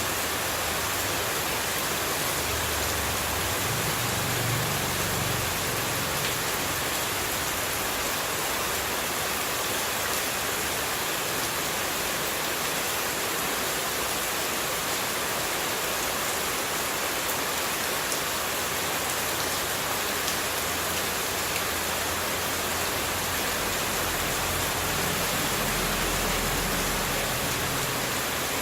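Steady, even rush of running water, a continuous hiss without pauses, with a faint low rumble swelling a few seconds in and again near the end.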